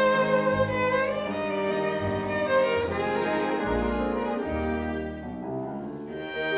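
Live chamber ensemble playing: a bowed violin melody with some sliding notes over low cello notes. The music softens a little about five seconds in.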